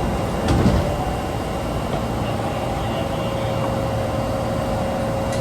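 Subway train in motion, heard from on board: a steady low running rumble with a constant hum over it, and a short knock about half a second in.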